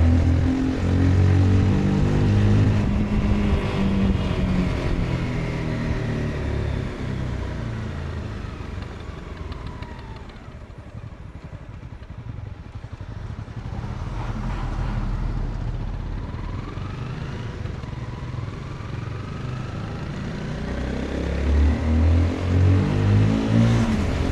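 Honda CBR 250R's single-cylinder engine under way: the revs fall away and the engine quietens about ten seconds in as the bike slows, then the revs climb again and it pulls harder, with several surges in revs near the end.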